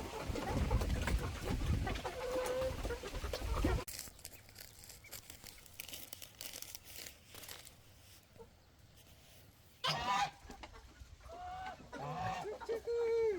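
Loud noisy sound that cuts off suddenly about four seconds in, then a quiet stretch, then chickens calling several times over the last few seconds.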